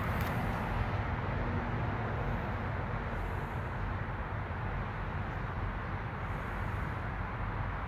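Steady low rumble of idling truck engines.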